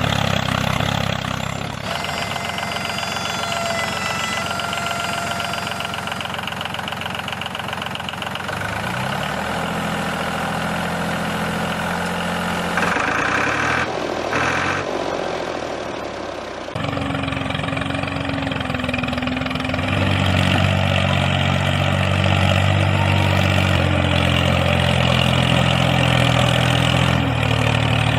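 Engine running, heard in several short segments that change abruptly. Its pitch rises to a steadier run about nine seconds in, and it settles into a steady idle about twenty seconds in.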